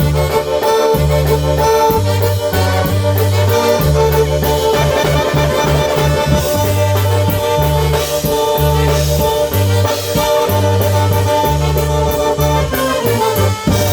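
Live polka band playing an instrumental passage over a bass line that moves in steady blocks of low notes.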